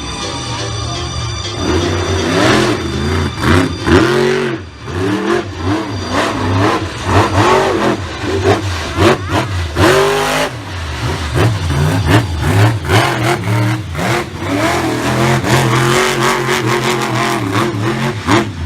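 Monster truck engine revving hard again and again, its pitch climbing and dropping in quick bursts every second or so.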